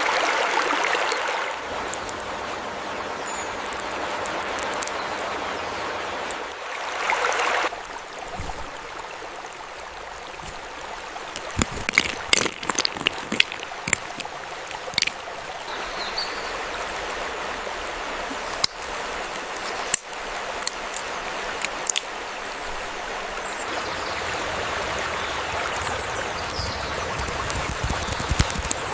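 A stream flowing with a steady rushing sound, broken by scattered sharp clicks in the middle stretch.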